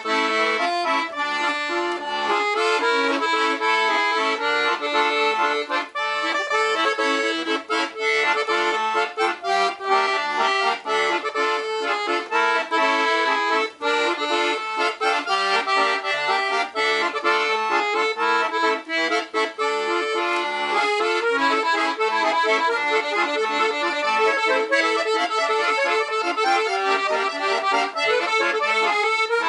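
Black Parrot 120-bass piano accordion with LMM treble reeds playing a tune: a continuous melody and chords over short, evenly spaced bass notes.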